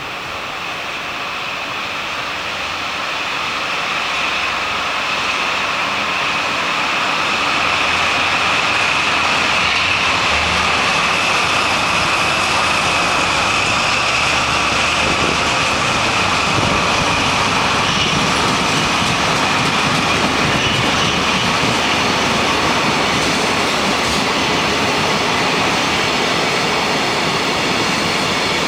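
Freight train hauled by a DD51 diesel-hydraulic locomotive passing close by. The noise builds over the first several seconds, then holds steady as the wagons roll past, with a high whine running through the rolling noise.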